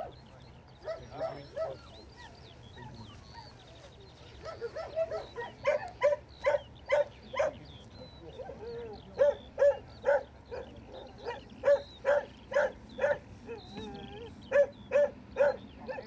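A dog barking repeatedly in runs of about two short barks a second, starting about five seconds in, with a short break midway.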